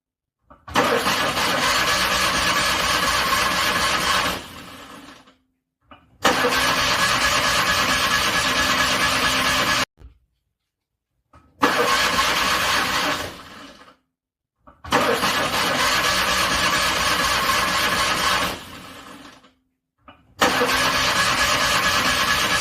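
Car engine being cranked over by its starter in repeated cold-start attempts. There are five cranking bursts of a few seconds each, with short silent breaks between them; some trail off and others stop abruptly.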